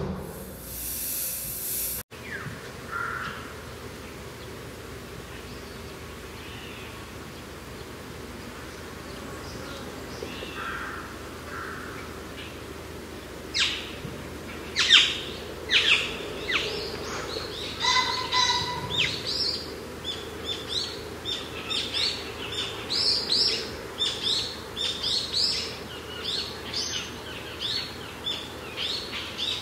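Birds chirping, many short sharp calls that grow busier from about halfway on, over a steady low background. A brief hiss at the very start cuts off abruptly about two seconds in.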